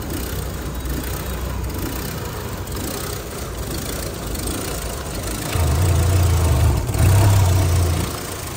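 Chevrolet Cruze LTZ's four-cylinder petrol engine idling, getting louder twice for about a second each near the end. It runs with a jerky stumble that the mechanic likens to a misfire, after water got into the engine.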